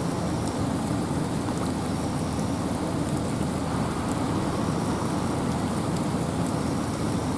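Steady rain falling in a forest, with a low, even rush of wind beneath it and faint scattered drips.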